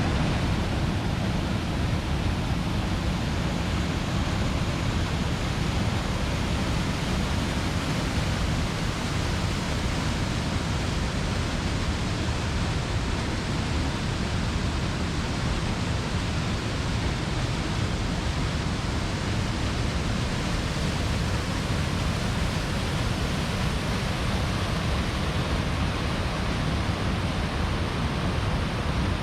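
A waterfall running heavily, a steady rushing roar of falling water with no change in level.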